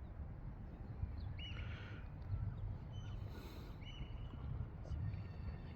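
Low steady outdoor rumble with a few short, high bird chirps at intervals.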